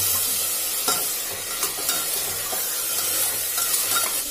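Freshly washed green peas sizzling in hot ghee with onions in an open pressure cooker, easing a little toward the end. A metal spoon stirs them, scraping and clinking against the pot several times.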